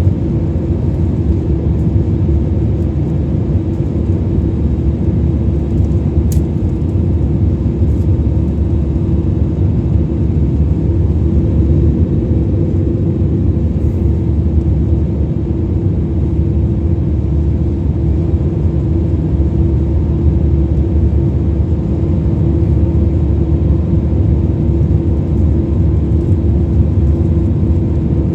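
Steady drone of an airliner's cabin in flight: engine and airflow rumble, with a constant low hum running through it.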